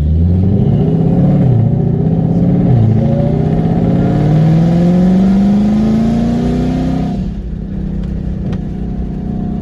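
Shelby GT500's supercharged V8 launching and accelerating hard, the revs climbing and dropping sharply at quick upshifts about one and a half and three seconds in. It then pulls through one long climb in the next gear before the revs fall away about seven seconds in and hold steady.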